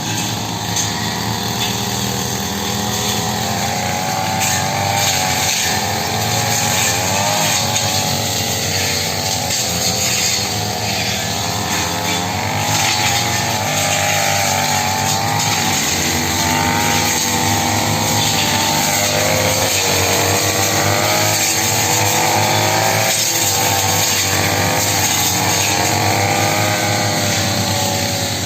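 Petrol brush cutter (grass-cutting machine) running while cutting grass and brush. Its engine note keeps wavering up and down as the load changes.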